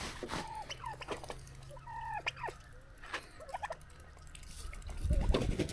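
Domestic fowl giving a series of short calls over a faint low hum, with louder low noise near the end.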